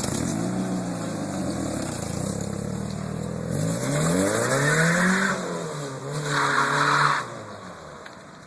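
Mitsubishi Galant's 4G64 2.4-litre four-cylinder engine being revved through its exhaust: a short blip, then two bigger revs that rise and fall, then a rev held for about a second. After that the sound drops back and fades.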